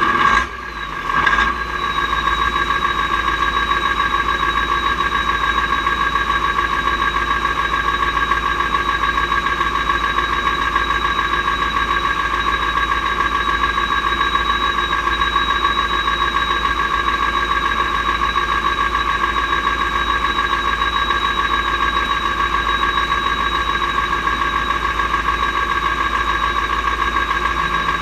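Mack R-series V8 diesel truck engine running at a steady pace, with a constant whine held over the engine note. About a second in the sound dips briefly and then surges back.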